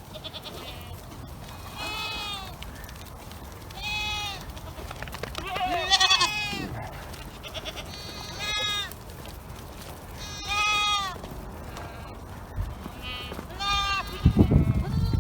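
Goats bleating, one drawn-out call about every two seconds, each falling in pitch. A few low knocks or rumbles come near the end.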